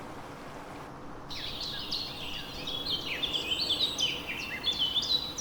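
A steady background hiss, then about a second in an abrupt switch to a busy chorus of small songbirds: many quick chirps and short twitters overlapping, high-pitched and continuous.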